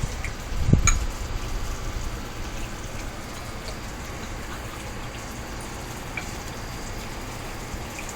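Steady hiss of background noise, with a low bump and a click about a second in and a few faint ticks after.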